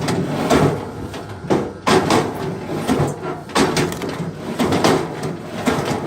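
Pieces of firewood knocking and clattering against each other in a run of about ten irregular, sharp knocks.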